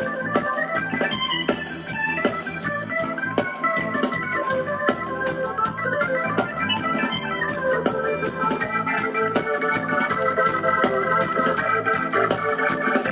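Live reggae band music carried by an organ holding chords that shift every second or two, with regular short drum hits over it.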